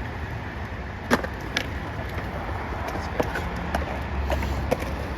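Skateboard wheels rolling over concrete with a steady low rumble, with a sharp knock about a second in and a few lighter clicks later.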